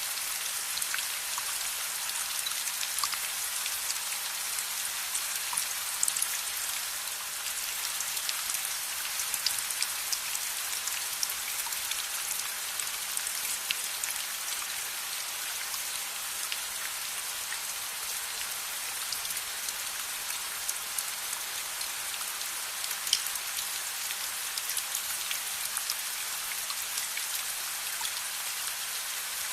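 Steady rain falling, an even hiss with many small sharp ticks of drops scattered through it and a couple of louder ones.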